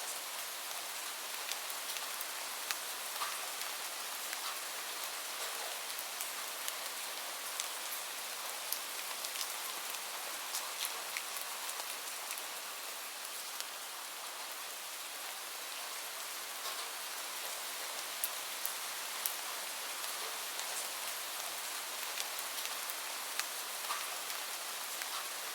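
Steady gentle rain, an even hiss, with scattered sharp clicks and pops all through it.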